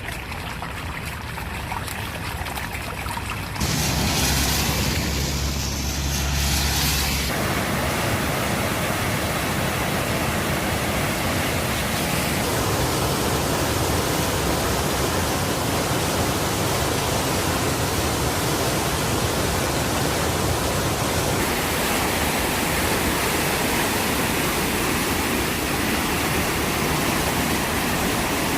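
Steady rushing of water in a rain-swollen creek running high. A louder, deeper stretch comes between about four and seven seconds in.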